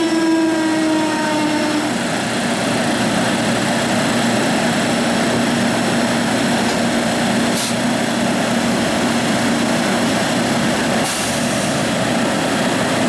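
A train passing through the station: a steady, loud rumble of the train running, with a horn-like chord fading out about two seconds in and a steady hum afterwards. Two short hisses come near the end.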